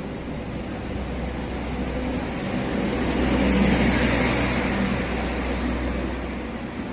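A train passing by. Its rumbling rush builds to a peak a little past halfway, then fades away.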